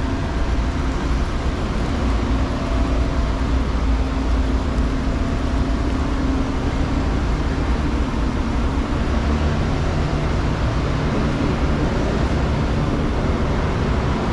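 Amtrak passenger train cars rolling past close by as the train pulls into the station: a steady low rumble of steel wheels on the rails.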